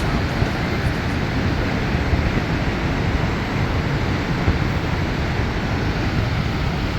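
Steady rushing roar of Niagara Falls, the water pouring down without letup.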